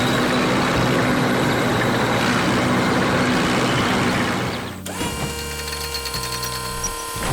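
Steady mechanical machine noise, like heavy equipment working, for about five seconds, then a sudden change to a quieter sound made of several steady held tones.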